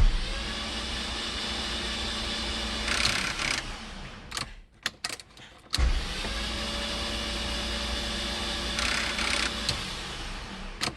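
A VW MK3 VR6 engine is cranked over on its starter with all spark plugs out and no ignition or fuel, so it spins fast and even with no compression. There are two bursts of about four to five seconds each, separated by a short pause.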